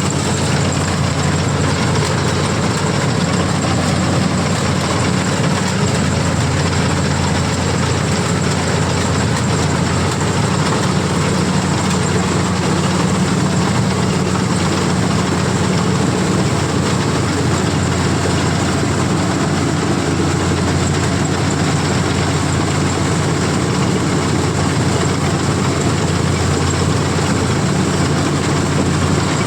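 CLAAS combine harvester running steadily while cutting paddy, a constant low diesel drone with the machinery's steady whirr over it.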